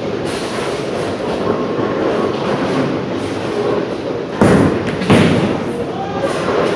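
Steady rumble of a bowling ball rolling down a wooden lane, then two sudden crashes about four and five seconds in, a ball hitting the pins and the pins scattering.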